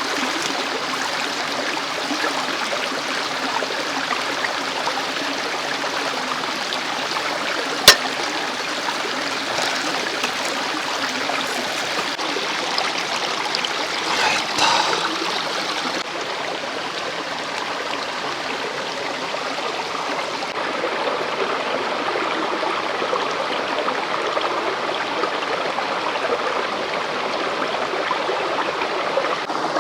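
Mountain stream rushing steadily over rocks. One sharp click about eight seconds in, and a brief noise around fifteen seconds.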